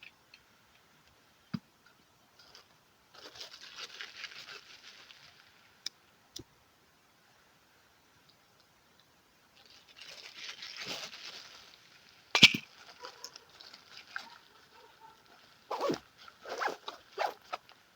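Rustling and crinkling handling noises in two stretches, then a sharp click and a quick run of knocks near the end.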